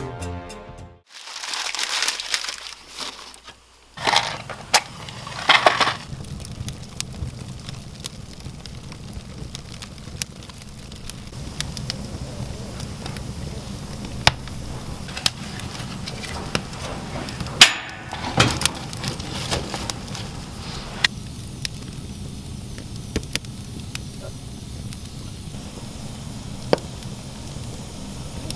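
Raw outdoor recording of skis sliding on snow: two swishing rushes in the first few seconds, then a steady low rumble with scattered sharp clicks and cracks.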